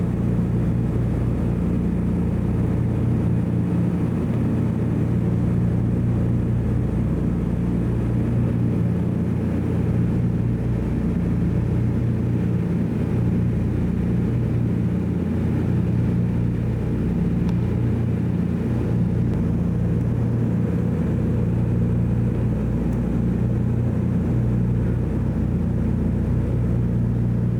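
Twin radial piston engines of a DC-3 droning steadily in flight, heard from inside the cabin.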